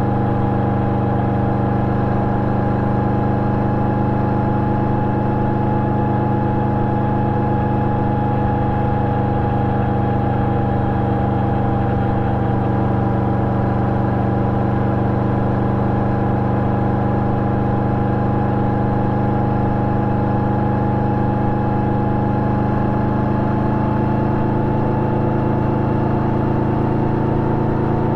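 Yamaha VMAX 1700 V4 engine running through an Akrapovic exhaust with a dB-killer fitted, holding a steady note whose pitch creeps up slightly near the end.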